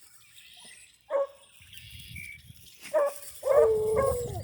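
Rabbit hounds baying as they work the rabbit's scent trail: one short yelp about a second in, then from about three seconds several long drawn-out bays overlapping, growing louder.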